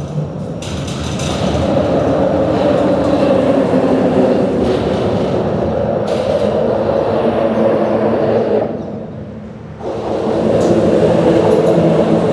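Loud, steady rumble of heavy vehicle traffic with droning tones, easing off briefly about nine seconds in and then building back up.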